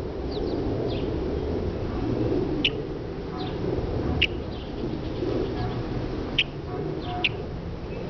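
Short, sharp bird chips, four loud ones a second or two apart among fainter ones, over a steady low background rumble.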